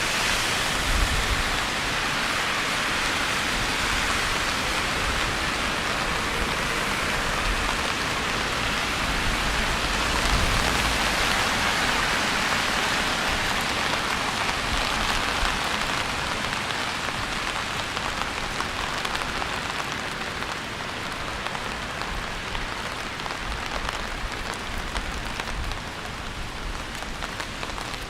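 Steady rain falling, an even hiss of drops with a low rumble coming and going underneath; it eases slightly toward the end.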